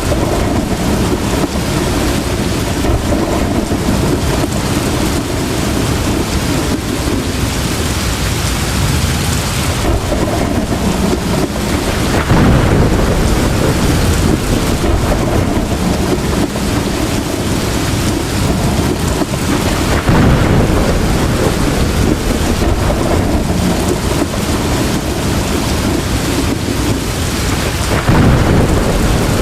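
Heavy rain pouring steadily in a thunderstorm, with rolling thunder swelling up three times, about a third of the way in, past the middle and near the end.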